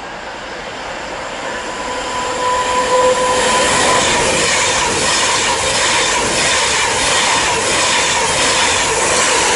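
Class 390 Pendolino electric express train passing through the station at speed without stopping: a rush of wheels and air that builds over the first few seconds and then holds, with a faint steady whine.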